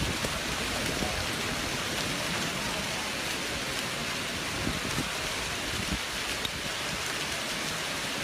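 Very heavy rain falling, a steady dense hiss with a few low knocks scattered through it.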